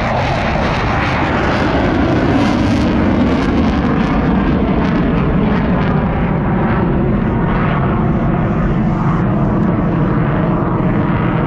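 An airshow display airplane's engine, a loud, steady drone as it flies its routine.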